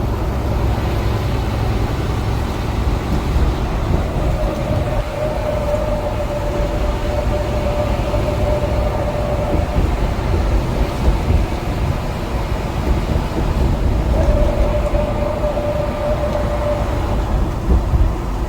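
Tractor-trailer cab noise while driving: a steady low engine and road rumble, with a steady higher whine that comes in twice, for several seconds each.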